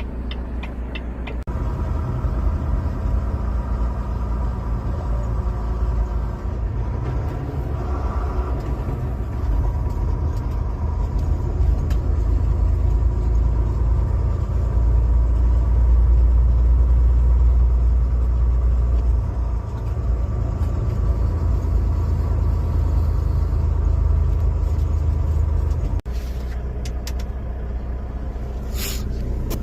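Semi truck driving, heard from inside the cab: a steady low engine and road rumble. It breaks off abruptly about 26 seconds in and carries on at a slightly lower level.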